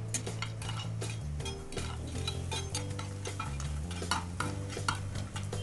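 Moong dal bori frying in hot oil in a nonstick kadai, crackling with many small irregular pops, while a spatula stirs and scrapes them against the pan. A steady low hum runs underneath.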